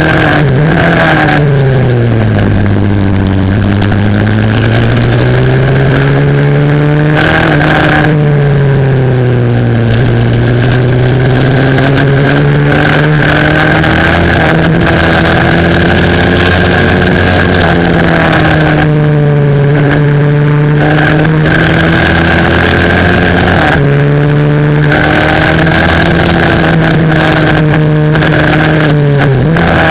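A 140cc single-cylinder four-stroke pit bike engine at racing speed, heard on board. The revs drop away and climb again several times as the bike brakes into corners and accelerates out, with sudden pitch steps at the gear changes.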